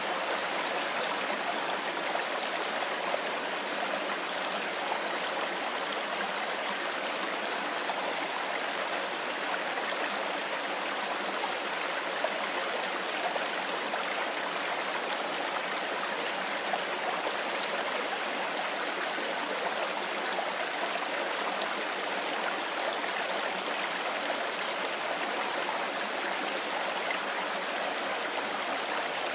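Mountain river flowing steadily over stones, a continuous rushing and babbling of water.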